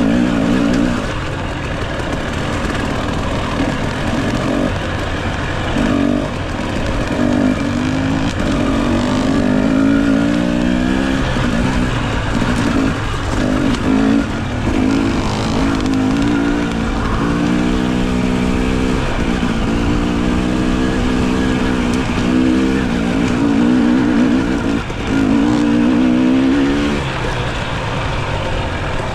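Dirt bike engine under a riding throttle, revving up and easing off again and again, its pitch rising and falling with short drops in between.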